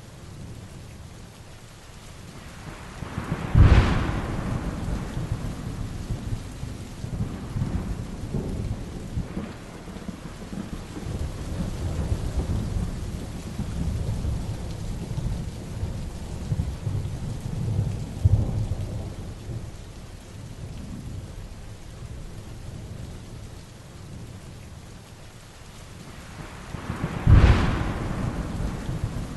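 Heavy rain with a thunderstorm. Two sharp thunderclaps come, one about four seconds in and one near the end, and low rolling thunder rumbles between them over the steady hiss of the rain.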